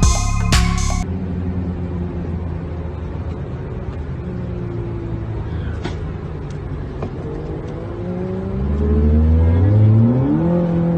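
Car engine running, then revving up with a rising pitch from about eight seconds in, easing off just at the end. Electronic music cuts out about a second in.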